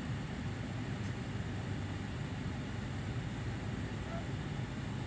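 A car's engine idling, an even low rumble with a steady hiss over it.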